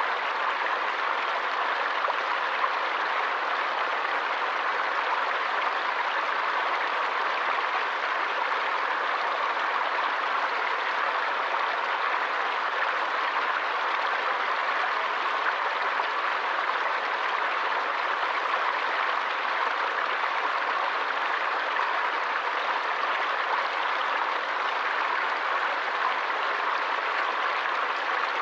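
Stream water flowing in a steady, even rush with no pauses or changes.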